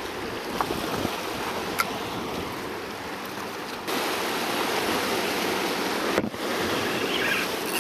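Sea washing against shoreline rocks, a steady rushing wash that steps up suddenly about halfway through, with a few light clicks early on.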